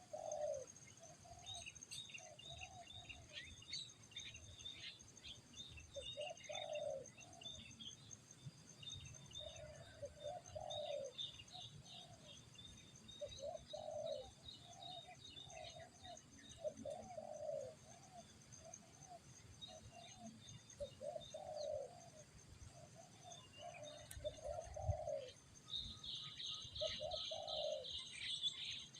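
Spotted doves cooing in a steady run of repeated phrases, with small birds chirping high above them. Near the end a dense, rapid high twittering starts.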